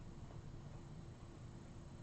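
Quiet room tone: a faint, steady low hum with no distinct events.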